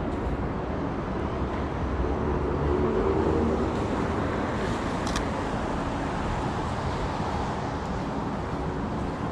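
City street traffic noise: a steady hum of passing cars, with one vehicle going by louder about two to three seconds in. A brief click sounds about five seconds in.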